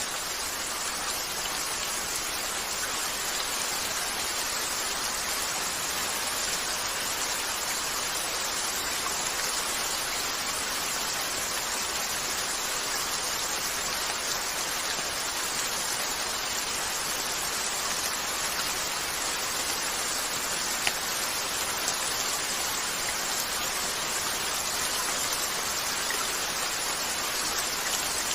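Steady rain pattering on a window, an even hiss of drops, with a couple of faint isolated pops about two-thirds of the way through.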